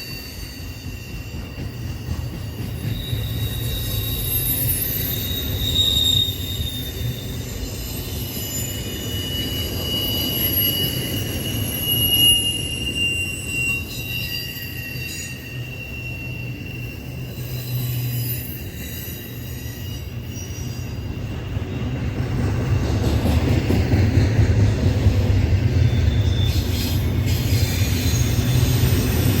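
Norfolk Southern freight train rolling past, its wheels squealing against the rails in drifting high tones over a steady low rumble. The rumble grows louder in the last third.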